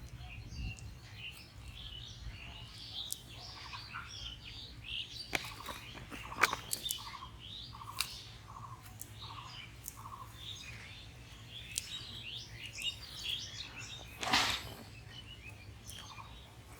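Birds chirping and calling throughout, including a short series of about five evenly spaced lower calls in the middle. Scattered sharp clicks and a brief rustling burst come near the end.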